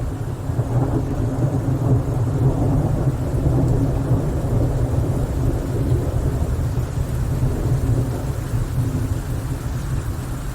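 Thunder rolling in a rainstorm, a low rumble that builds over the first few seconds and slowly eases off, with rain underneath.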